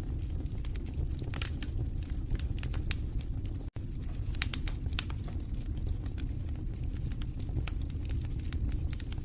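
Wood fire crackling in a fireplace: irregular sharp pops and snaps over a steady low rumble of the flames. The sound cuts out for an instant a little under four seconds in.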